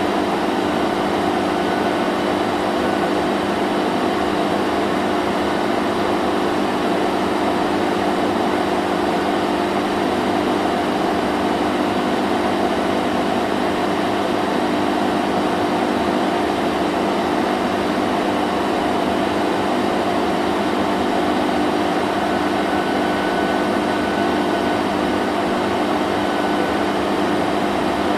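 Vacuum cleaner running steadily, a constant motor whine and rush of air with no change in pitch or level.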